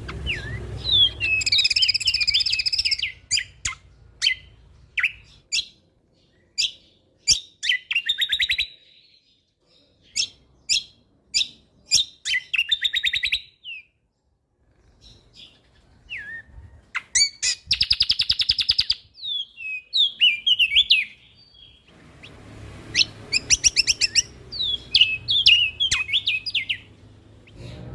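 A cucak kombo (kecial kombok) songbird singing a varied song of sharp single chirps, swooping whistles and fast trills. It breaks off twice with short pauses, then resumes with a dense trill and chattering phrases.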